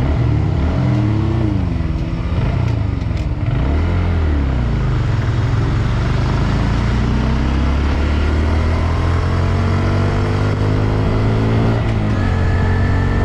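Honda Grom's single-cylinder engine revved briefly twice, then pulling with its pitch climbing steadily, over a haze of wind and road noise. A thin high whine comes in near the end.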